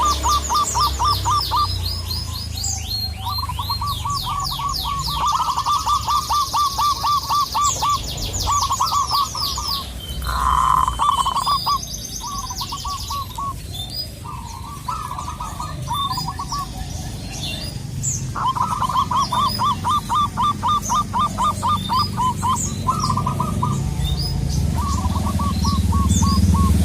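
Zebra doves calling in phrases of rapid, evenly repeated cooing notes, several phrases with short pauses between, while other small birds chirp higher. A low rumble swells near the end.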